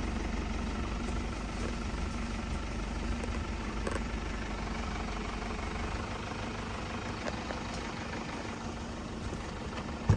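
Car engine idling steadily, a low rumble with a faint steady hum; the deepest part of the rumble fades about six seconds in. A single sharp knock right at the end.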